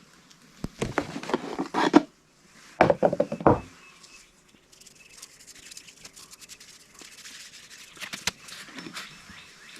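Handling noise: rubbing and light knocks in two short flurries early on, then faint rustling with a single sharp click about eight seconds in.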